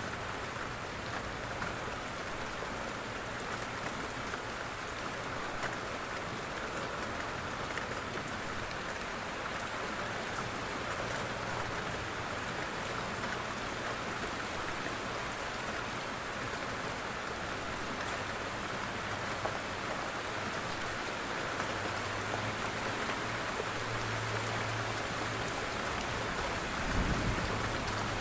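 Steady heavy rain falling. A low rumble of thunder builds in the second half, with a short heavier thud near the end.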